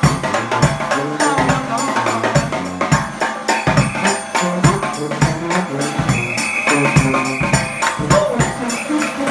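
New Orleans-style brass band playing live: a steady beat of drums and percussion with horns holding notes over it, one long high horn note from about six to eight seconds in.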